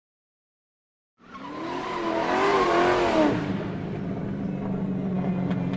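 Vehicle sound: a sudden rush with a wavering squeal starts about a second in, then settles after about three seconds into a steady low hum.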